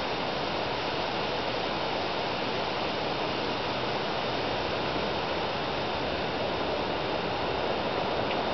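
Steady rushing noise of wind on the microphone, with no distinct events.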